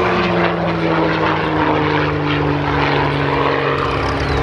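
Aermacchi AM.3 Bosbok propeller plane flying past under power, its engine note steady and slowly falling in pitch.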